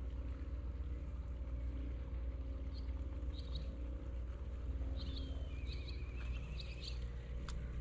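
A small songbird chirps several times and gives a short wavering trill in the second half, over a steady low rumble with a faint hum. A couple of sharp ticks come near the end.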